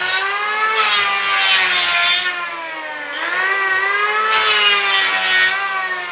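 Motor of an electric wood-shaving tool whining steadily while wood is shaved for bird-cage parts, with two hissing cutting passes, the first about a second and a half long, the second about a second.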